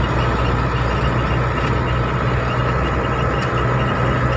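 Old vehicle's engine running steadily: a continuous low drone with a thin steady whine above it.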